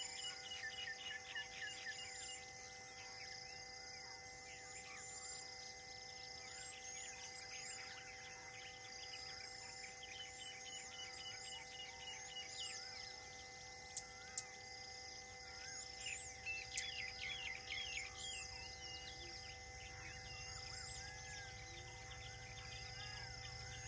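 Forest ambience of many wild birds chirping and calling, with quick trills and short downward whistles, over a steady high hum. Two sharp clicks come past the middle, and a low rumble builds near the end.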